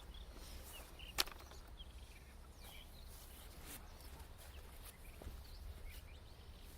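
Quiet outdoor field ambience with faint, scattered short chirps and light rustling, broken by a single sharp click about a second in.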